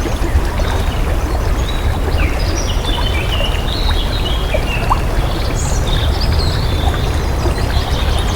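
Flowing water rushing steadily, with birds chirping over it through the middle of the stretch.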